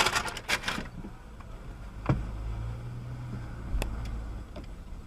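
Vehicle running, heard as a low hum and road noise, with a short noisy rush in the first second and a couple of sharp knocks about two and four seconds in.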